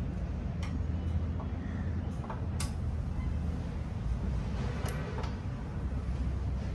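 A few scattered sharp clicks and knocks from parts being handled while a photocopier is taken apart, over a steady low hum.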